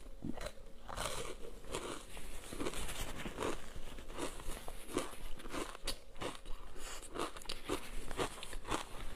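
Ice coated in thick matcha green tea powder being bitten and chewed: a steady run of crisp crunches, about two or three a second.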